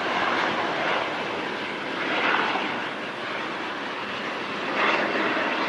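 Airbus A319-115 with CFM56 jet engines on its landing run, a steady rushing jet noise that swells about two seconds in and again near the end.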